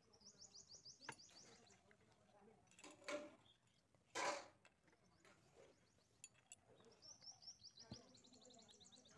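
Faint bird chirping: two quick runs of high, rapid chirps, one at the start and one in the last couple of seconds. Two brief soft noises fall between them, about three and four seconds in.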